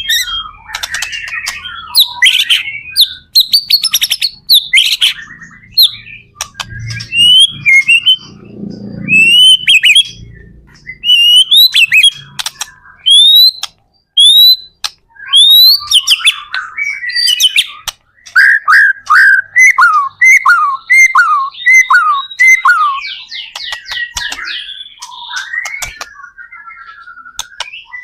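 White-rumped shama (murai batu) singing vigorously: a varied stream of loud rising and falling whistles, fast rattling trills and harsh notes, with a run of about ten quick down-slurred whistles repeated about two-thirds of the way through.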